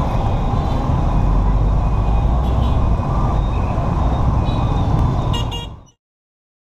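Street traffic: vehicle engines running with a low rumble, cut off abruptly about six seconds in.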